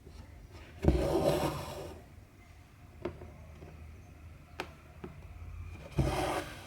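Cotton embroidery thread being drawn through cross-stitch fabric, a rasping pull about a second in and a shorter one near the end, with a few light clicks of the needle in between.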